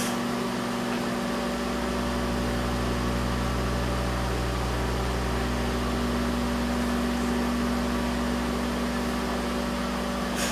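Microwave oven running, a steady electrical hum with fan noise while it heats a raw egg; a deeper hum comes in about a second and a half in.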